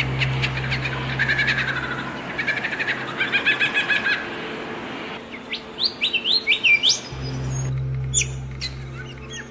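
Songbirds chirping and singing: quick runs of repeated trilled notes, then a series of short, sharply rising whistled notes about six to seven seconds in. A steady low hum sits under the birdsong and drops out for a few seconds in the middle.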